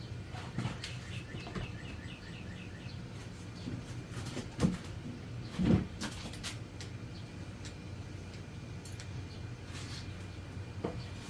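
Scattered light clicks and knocks from handling parts on a Honda CB750 cylinder head during cam installation, the loudest two about halfway through. About a second in comes a quick run of faint, evenly spaced chirps.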